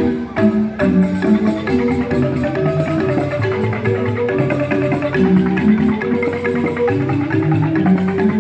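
Balinese joged bumbung gamelan: bamboo xylophones played with mallets in a fast, dense run of notes that never pauses.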